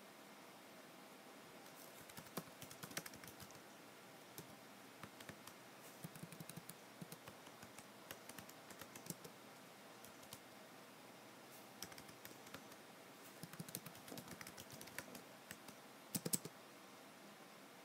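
Faint typing on a computer keyboard: runs of quick key clicks with short pauses between them, starting a second or two in.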